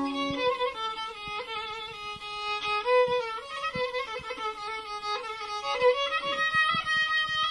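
Instrumental Turkish meyhane music with a violin carrying a stepping melody, and short low plucked or tapped notes under it.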